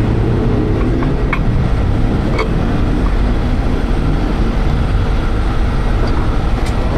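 Tow truck engine running steadily with a low rumble while its underlift is moved, with a few faint clicks.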